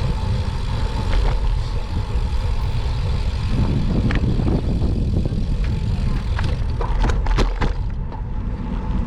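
Wind rushing over the microphone while riding a road bike through city traffic, a steady low rumble, with a few sharp clicks about seven seconds in.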